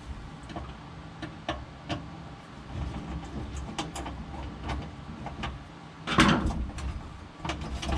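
Scattered small clicks and knocks of metal parts and hand tools being handled, with one louder knock about six seconds in.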